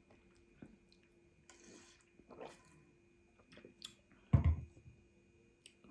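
A person eating quietly: faint chewing and small mouth and handling clicks, with one loud dull thump about four seconds in.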